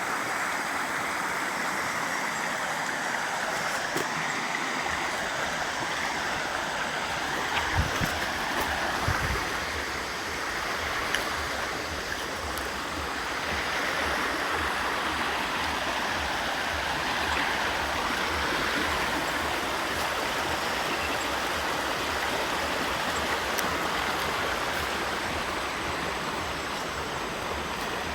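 Steady rush of flowing water, like a stream. From about five seconds in, uneven low rumbling is added, with a couple of thumps about eight and nine seconds in.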